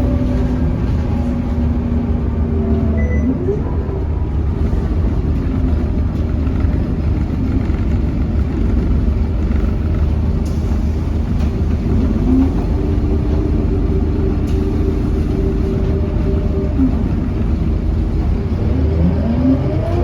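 Scania K230UB bus engine driving through a ZF automatic gearbox, a heavy steady rumble. Its pitch drops and then climbs again several times as the bus accelerates and the gearbox shifts.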